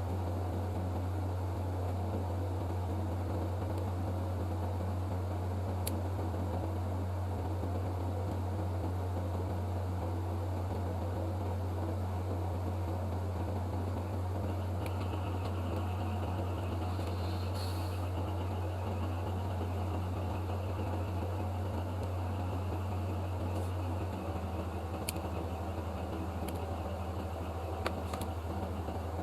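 Steady low hum with a fan-like whir. A faint high whine joins about halfway, the hum shifts slightly near the end, and a few light clicks sound.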